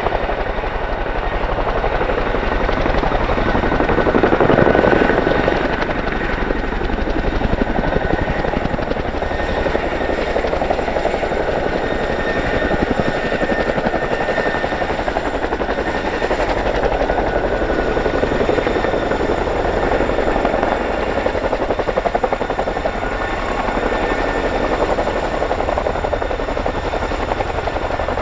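Boeing CH-47F Chinook tandem-rotor helicopter running steadily, its rotors giving a fast, even chop over a high turbine whine. The sound swells briefly about four seconds in.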